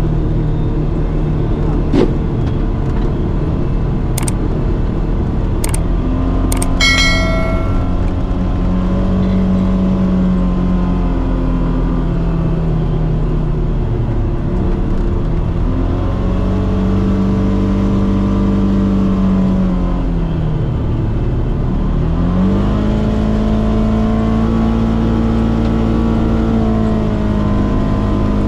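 Polaris Xpedition side-by-side's engine running under way on a trail, its note rising and falling with the throttle, dropping low about two-thirds of the way through and then climbing again. A few sharp knocks and clicks stand out in the first quarter.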